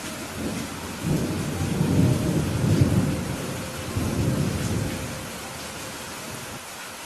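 Steady rain with a roll of thunder. The thunder rumbles up about a second in, swells twice and fades out after about six seconds.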